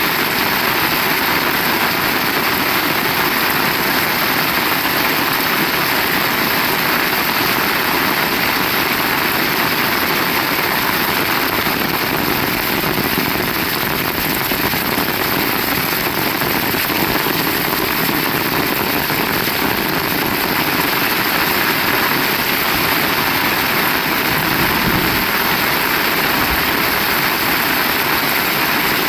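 Heavy rain falling steadily, a dense even hiss with no letup, with a short low rumble near the end.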